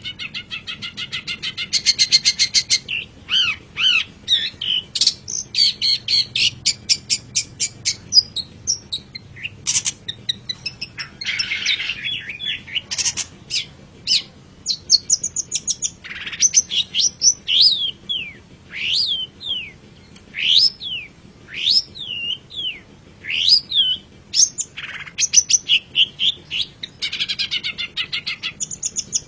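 Long-tailed shrike (cendet) singing a varied song: fast rattling trills, harsh scratchy notes, and a run of sharp down-slurred whistles partway through.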